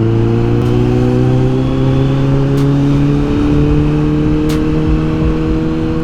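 Kawasaki Z900's inline-four engine pulling at a gentle throttle while riding, its pitch rising slowly and steadily, with a brief change in the note a little past halfway.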